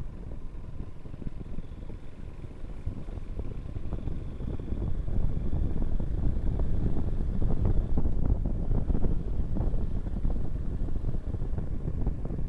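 Wind buffeting the microphone on a moving motorcycle, over the low rumble of the engine and road, getting louder about four to five seconds in.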